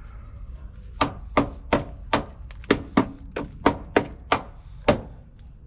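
About eleven sharp hammer blows, roughly three a second, knocking at old metal on a car body. They start about a second in and stop shortly before the end.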